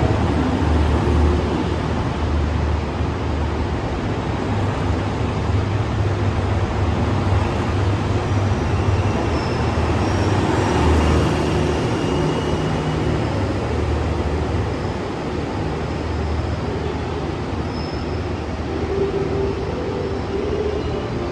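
Train running at a station platform: a steady low rumble that goes on without a clear start or stop.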